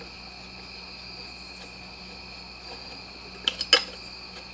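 Steady, high insect trill, like crickets, with three sharp clicks about three and a half seconds in.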